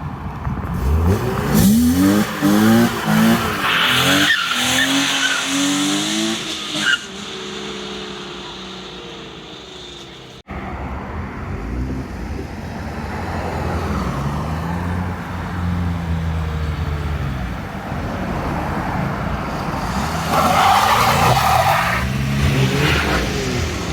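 Modified cars driving out of a car meet, their engines revving up and dropping back between gears. About four seconds in comes a few seconds of tyre screech; another hard rev comes near the end.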